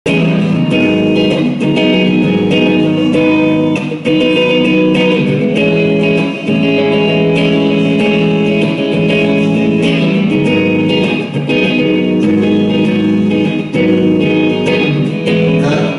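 Electric guitar played through an amplifier, ringing held notes and chords that change every second or two, with brief gaps between phrases.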